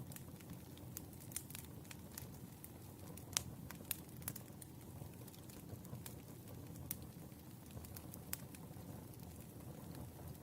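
Firewood burning, with irregular sharp crackles and pops over a low, steady rumble. One pop is louder than the rest about three and a half seconds in.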